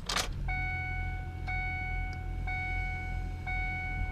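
Ford truck's dashboard warning chime ringing over and over, a clear tone that restarts about once a second, as the key is switched on between cranking attempts on a cold 7.3 diesel. A low, steady engine hum runs underneath.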